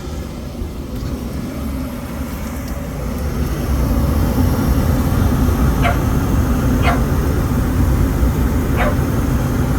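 Gas package unit running with a steady low hum that grows louder about four seconds in, the furnace section lit after power was restored. A dog barks three times in the second half.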